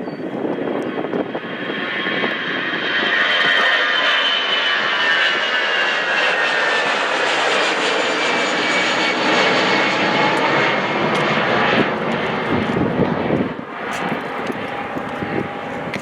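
Jet airliner's engines passing close by. The sound builds over the first few seconds, carries a whine that falls in pitch as the plane goes past, and eases off near the end.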